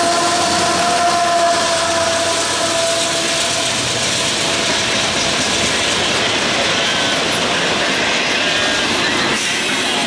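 Train rolling past on the tracks: a loud, steady rush of wheels on rail. A faint tone fades away over the first few seconds.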